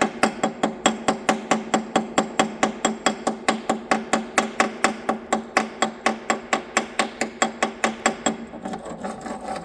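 A hammer striking metal in a fast, even rhythm, about five blows a second, each blow ringing. The blows grow lighter near the end.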